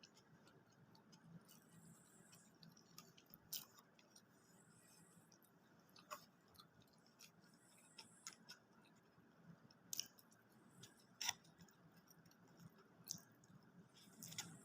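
Faint mouth sounds of someone eating fast food: quiet chewing with scattered sharp clicks and crunches every second or two.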